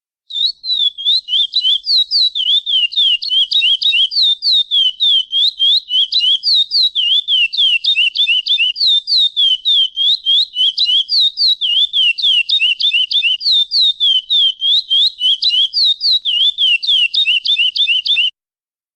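Chestnut-bellied seed finch (curió) giving a long, unbroken series of sharp chirp calls (pialadas), several a second, that stops abruptly near the end.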